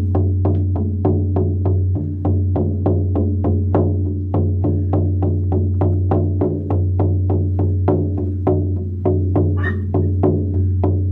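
16-inch buffalo-hide shaman frame drum struck with a firm beater in a steady beat of about four strokes a second. Each stroke gives a sharp attack, and the drum's deep boom rings on between strokes.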